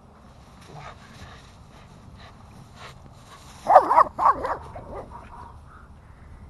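A dog giving a quick run of short barks and yips about halfway through, with a fainter yip just after.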